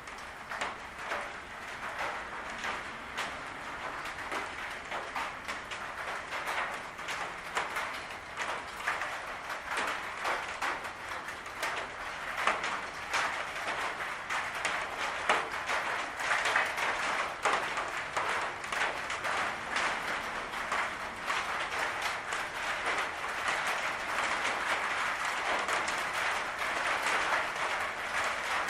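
Rain falling on a patio roof: a steady patter of many small drop impacts, getting a little louder toward the end.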